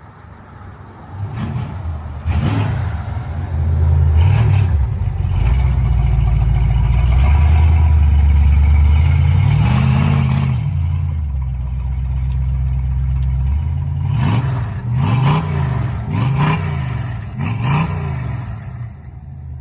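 A muscle car's engine revving hard: a couple of sharp throttle blips in the first few seconds, a long loud pull whose pitch rises and falls around ten seconds in, then a quick string of blips near the end.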